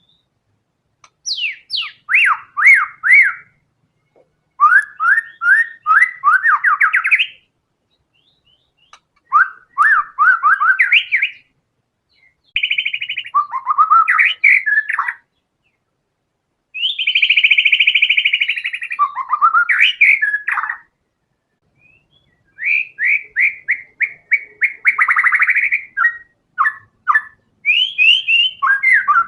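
White-rumped shama (murai batu) singing loudly in about six rapid phrases. Each phrase is a quick run of repeated rising notes and trills, and the phrases are separated by pauses of one to two seconds.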